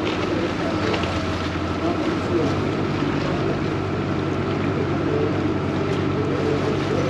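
Vaporetto water bus engine running steadily underway, a constant low hum with a faint steady whine above it, over the rush of water and wind; the engine note deepens slightly about two and a half seconds in.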